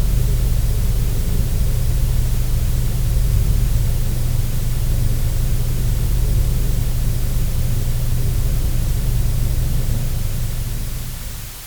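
Passenger car engine running at a steady speed, a low rumble with hiss over it, fading out near the end.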